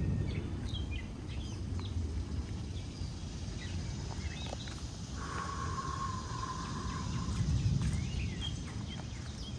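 Birds chirping now and then over a low steady rumble, with one steady note held for about two seconds around the middle.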